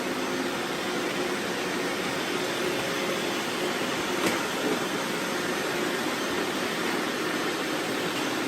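Several robot vacuums running at once, their suction motors and brushes making a steady whirring hiss, with a faint click about four seconds in.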